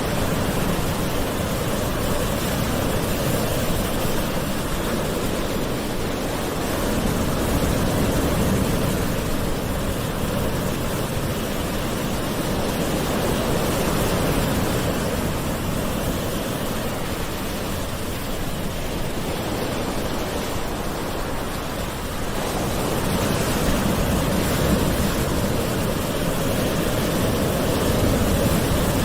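Gentle ocean waves washing ashore, a steady low rushing that swells and eases slowly every several seconds.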